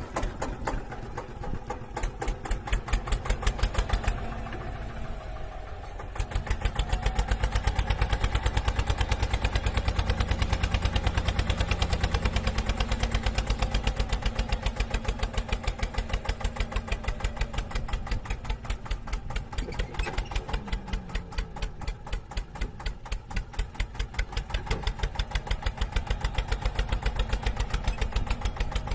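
An engine running with a rapid, even chugging pulse, which changes and drops for a couple of seconds about four seconds in before steadying again.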